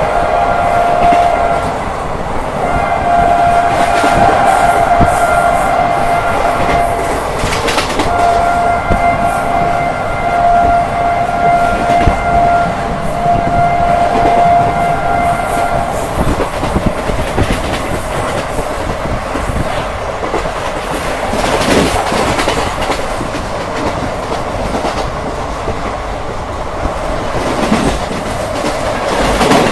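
Indian Railways train horn blowing three long blasts, the last lasting about eight seconds, over the steady rumble and clickety-clack of a train running at speed. After the horn stops, the wheel and rail noise carries on alone.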